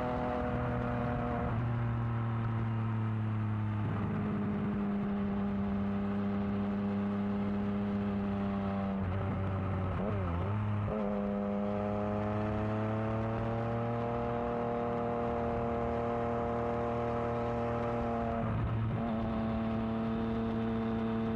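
Yamaha XSR900's three-cylinder engine running through a new aftermarket exhaust while riding. It holds a steady note for several seconds at a time, and the pitch shifts abruptly at gear changes four times, with a brief dip and waver about ten seconds in.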